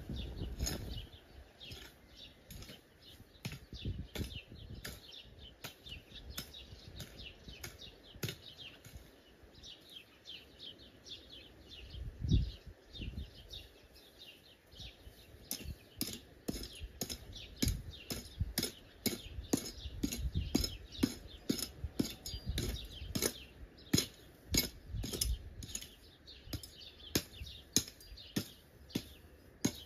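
Birds chirping densely and continuously, with many sharp clicks and a few dull thumps in between; the loudest thump comes about twelve seconds in.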